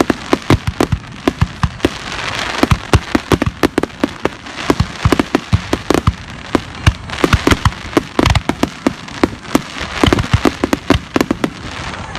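Aerial fireworks display going off in a rapid barrage: many sharp bangs and crackles in quick, uneven succession over a continuous hiss.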